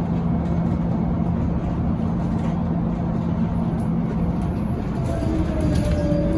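Scania Citywide LFA city bus running: a steady engine hum with a low drone that fades out about halfway through, and a faint falling whine near the end.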